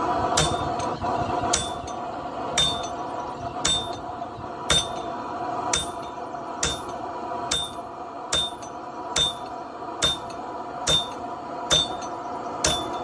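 Steady, rhythmic hammer blows driving a top tool into hot steel on an anvil, about one strike a second, each with a bright metallic ring; a steady hum runs underneath.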